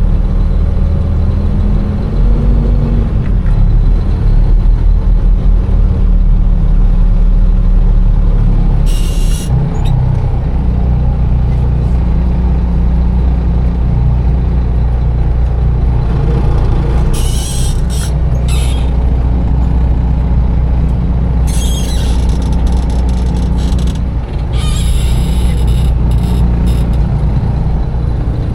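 Container truck's engine running steadily, with several short hisses of air from the air brakes, about four times.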